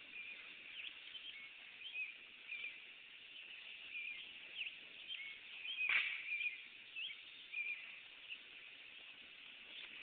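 Birds chirping: short, scattered high chirps over a faint outdoor hiss, with one louder, sharper sound about six seconds in.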